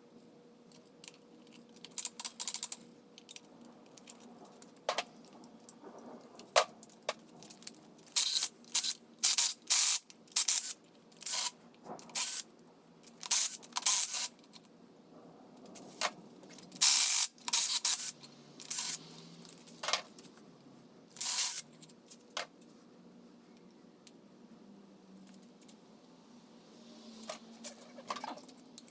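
Irregular metallic clinks and rattles of tools and small metal engine parts being handled during engine disassembly, busiest in the middle stretch.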